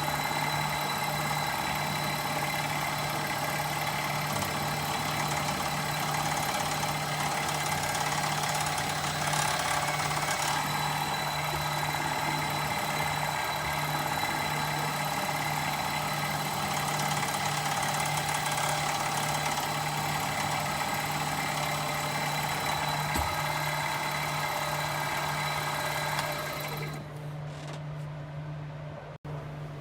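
Machine-tool motor running steadily with a constant whine while drilling a hole in steel bar stock. It cuts off about 26 seconds in, leaving a quieter hum.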